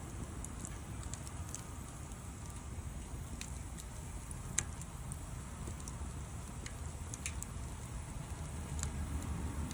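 Wood bonfire crackling, with scattered sharp pops over a low steady rumble, one pop louder about halfway through.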